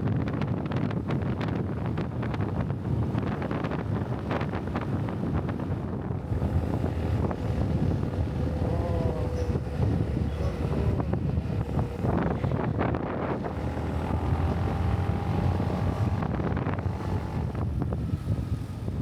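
Wind buffeting the microphone while riding a motorbike, with the bike's engine running underneath as a steady rumble.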